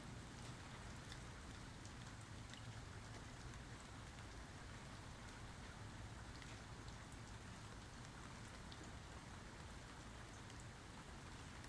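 Faint, steady rain falling, an even hiss with scattered single drops ticking through it; no thunder.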